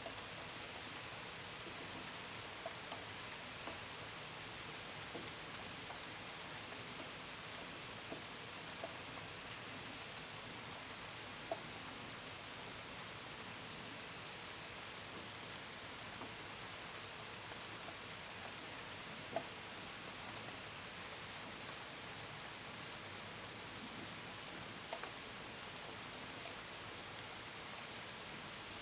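Steady rain, with a few sharp drops ticking on the window and gutters. Crickets chirp continuously at a high pitch through the rain.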